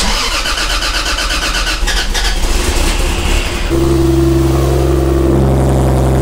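A car engine being cranked over by its starter for about three and a half seconds, then catching and settling into a steady fast idle.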